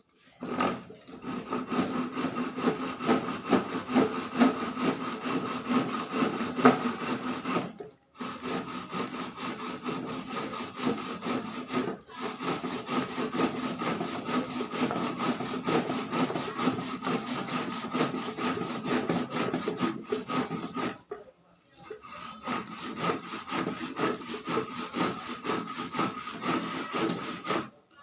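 Sawing, in long continuous runs broken by short pauses about 8 seconds and 21 seconds in.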